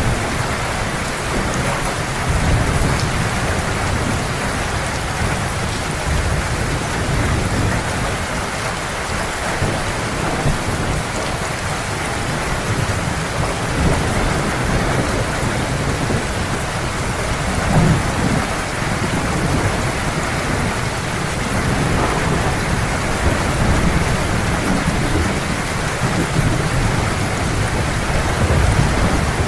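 Heavy rain pouring steadily, with low thunder rumbling beneath it and swelling a little louder once past the middle.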